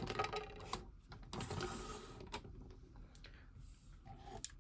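Hard plastic toy robot parts being handled, with a few scattered light clicks and a soft rustle of handling.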